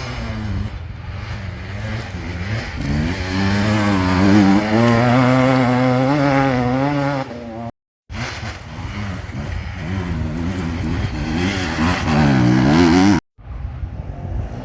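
Enduro motorcycle engine revving hard, its pitch rising and falling repeatedly as the throttle is worked. It cuts to silence abruptly twice.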